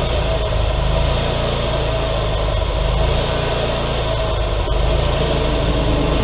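Wood-Mizer LT40 hydraulic sawmill's engine running steadily.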